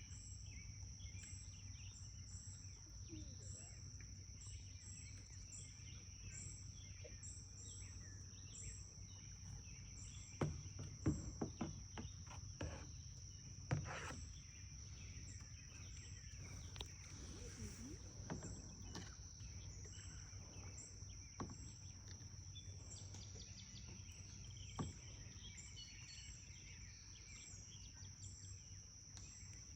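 Insects droning steadily on one high note, with a chirp repeating about once a second above it and birds calling now and then. A few sharp knocks come in a cluster about a third of the way in.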